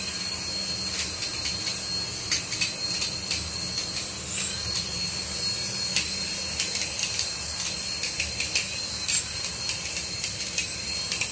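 High-pitched whine of a toy RC aircraft's small electric motor spinning its rotor or propeller, the pitch sweeping up a few times as the motor speed changes, with scattered light clicks.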